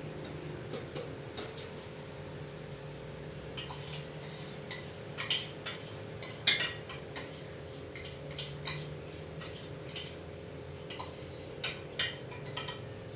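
A spoon clinking against a cup in irregular light taps while hot water, sweetened condensed milk and sugar are stirred together, over a steady low hum.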